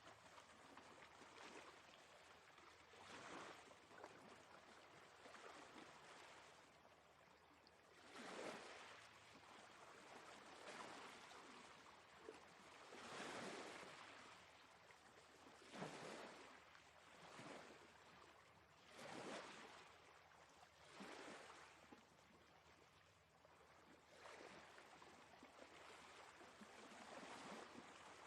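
Faint sea waves, the surf washing in and swelling up every few seconds.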